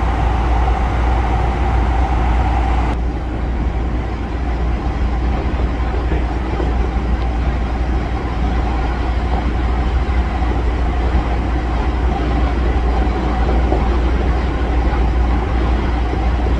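Los Angeles Metro train running: a steady, loud rumble with a faint steady hum over it.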